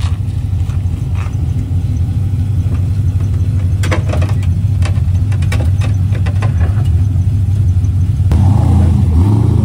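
Sports car engine running at low revs with a deep, steady rumble as the car creeps along, with a run of sharp clicks about halfway through. Near the end the engine note rises a little as the car pulls away.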